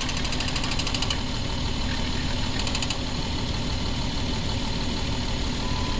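2011 Jeep Wrangler's 3.8-litre V6 idling unevenly, misfiring on cylinder 2, whose coil is giving barely any spark.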